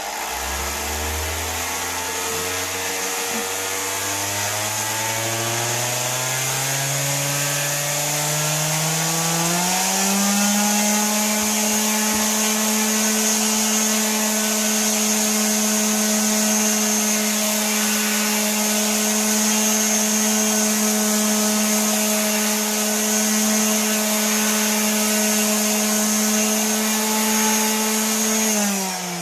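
Skil 7461 random orbital sander running on wood with a 120-grit disc. Its motor pitch climbs over the first ten seconds as the speed is stepped up through its six settings, holds steady at the higher speed, then falls near the end as it slows.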